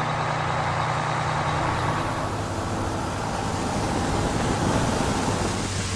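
SHACMAN heavy truck running, with a steady low engine hum under road and running noise. The engine note drops about two seconds in.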